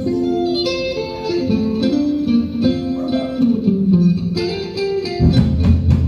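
A live band plays an instrumental passage: a guitar picks a melodic line of single notes. The bass guitar and drums come in about five seconds in.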